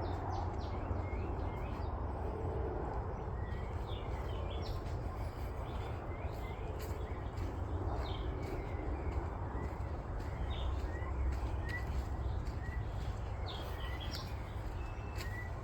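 Forest birds calling: many short chirps and whistles, scattered and overlapping, over a steady low rumble.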